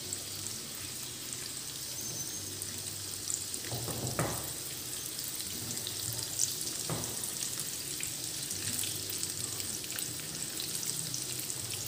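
Breaded chicken patties shallow-frying in oil in a nonstick pan over a low flame: a steady sizzle, with a few soft scrapes and taps of a silicone spatula as the patties are turned over.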